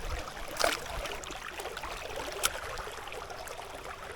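River water running steadily, with two brief sharp sounds, about two-thirds of a second in and again about two and a half seconds in.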